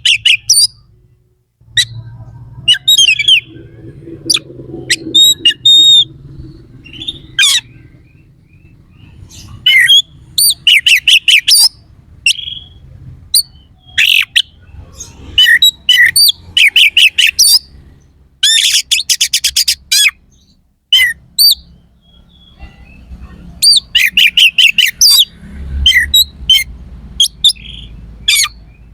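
Oriental magpie-robin (kacer) singing loudly in short bursts: fast runs of harsh repeated notes mixed with sharp whistles and chatter, with brief pauses between phrases.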